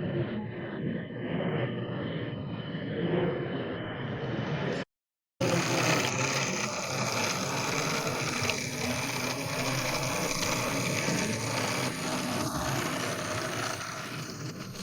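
Steady, noisy ambience of a busy model railway exhibition hall. The sound cuts out briefly about five seconds in, where two pieces of footage are joined, then carries on.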